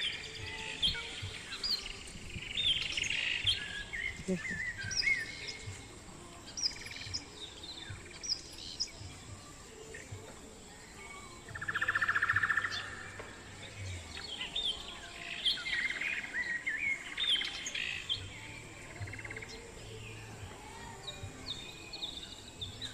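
Several small birds chirping and calling in short, quick rising and falling notes, with a louder buzzing trill about twelve seconds in.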